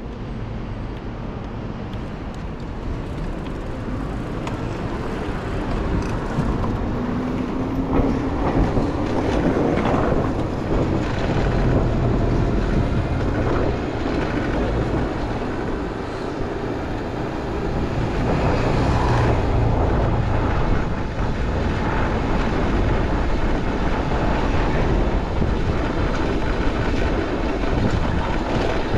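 City street traffic heard from a moving bicycle: a steady rush of vehicle noise that grows a little louder after the first few seconds, with one vehicle's motor tone rising briefly about seven seconds in.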